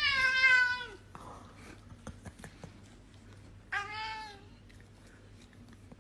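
A domestic cat meowing twice: a drawn-out meow at the start and a shorter one about four seconds in.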